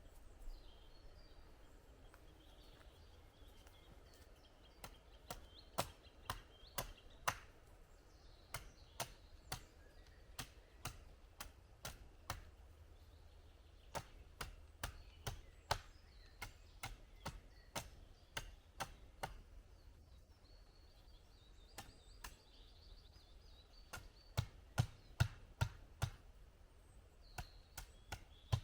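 Wood being chopped: runs of sharp single strokes, roughly one or two a second, broken by short pauses, with the heaviest strokes near the end. Faint birdsong behind.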